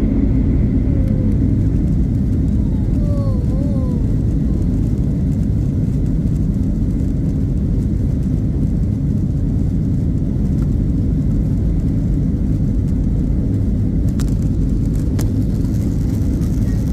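Jet airliner taking off: a steady, loud, low rumble from its engines that holds level without building or fading.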